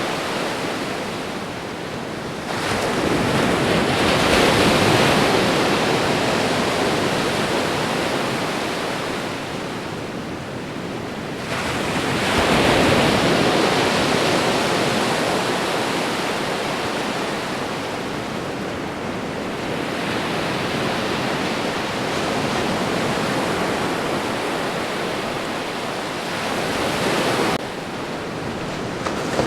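Ocean waves breaking on a shore, a steady rushing wash of surf. Two waves swell in sharply, one about two and a half seconds in and another about eleven seconds in, each fading slowly. The level drops suddenly near the end.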